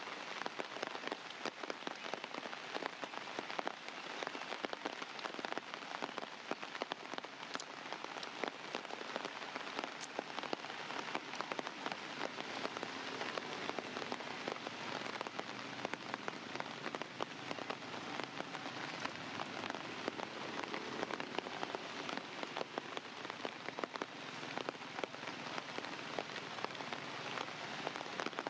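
Steady rain falling: a dense, even patter of many drops hitting a surface.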